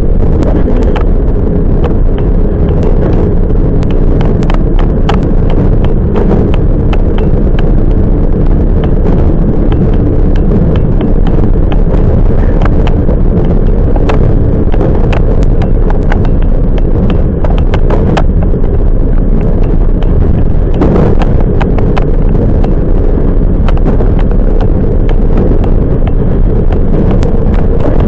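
Toyama Chiho Railway 10030 series electric train running, heard from inside the car: a steady rumble and hum with repeated sharp clicks of the wheels over rail joints.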